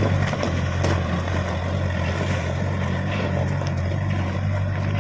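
Truck engine running steadily, with a few light clicks and rattles.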